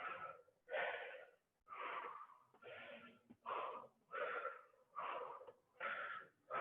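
A person breathing hard and fast from exertion, short breaths in and out at about three every two seconds.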